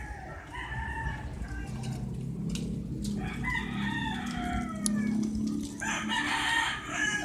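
A rooster crowing, one long call that falls in pitch at its end, about three seconds in. Near the end comes a short burst of scratchy noise.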